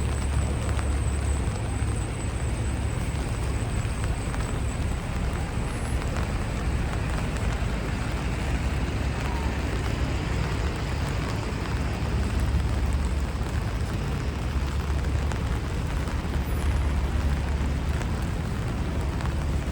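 Steady hiss of rain falling on a wet city street, over a constant low rumble of passing traffic.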